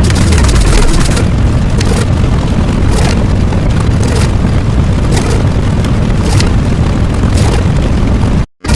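Loud, continuous explosion-like booming rumble with a sharp crack about once a second. It cuts out completely for a moment near the end.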